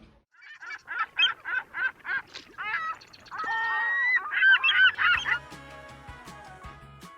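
Goose honking: a quick series of short honks, then a louder run of overlapping drawn-out honks, ending about five seconds in as outro music with a steady bass line begins.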